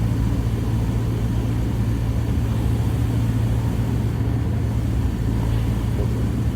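Single-engine light aircraft's piston engine and propeller droning steadily in the cabin during the final approach to landing.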